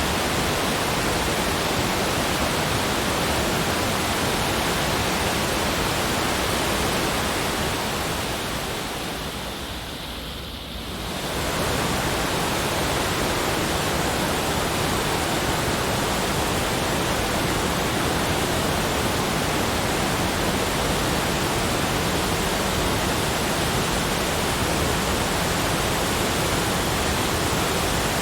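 Continuous, even rushing noise spread across low and high pitches alike, with no distinct events; it fades down and comes back up about ten seconds in.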